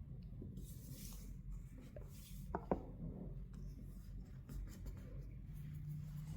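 Light scratching and rubbing with scattered small clicks from handling a phone and tools on a workbench, and one sharp click about two and a half seconds in, over a steady low hum.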